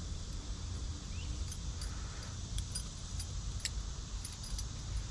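Scattered small metallic clicks and light rattling of a pin-tumbler lock cylinder being worked with a key and a shim to free the plug, over a steady low rumble.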